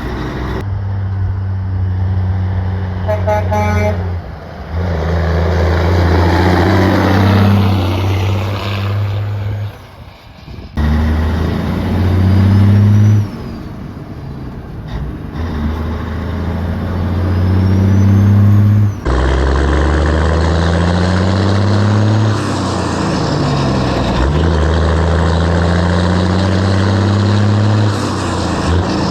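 Foden lorry's diesel engine running through a straight-through stainless exhaust while accelerating through the gears. The engine note climbs in pitch, then drops at each of several gear changes.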